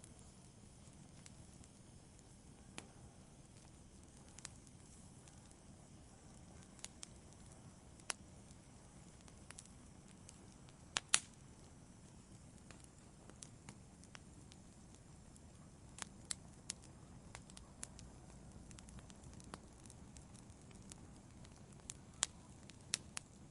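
Wood fire in a fireplace crackling: irregular sharp pops and snaps over a faint low rush of the flames, the loudest a quick double pop about eleven seconds in.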